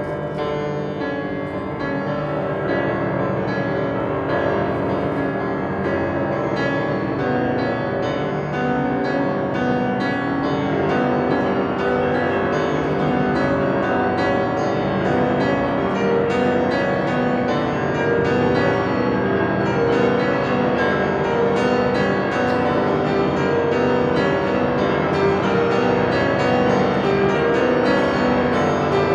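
A piano and chamber string orchestra playing a concerto passage, the music gradually growing louder.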